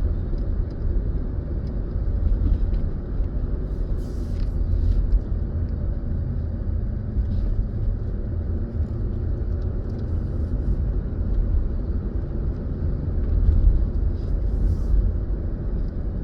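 Steady low rumble of a car driving along a road, engine and tyre noise, with a few faint short ticks.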